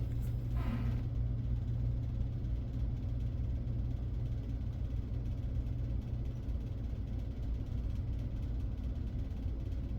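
Steady low hum of background noise, unchanging throughout, with a brief faint sound just under a second in.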